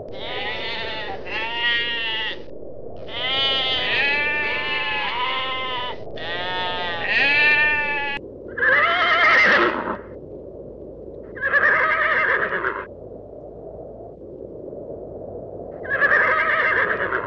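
A flock of sheep bleating, many calls overlapping for about eight seconds, then three separate calls spaced a few seconds apart.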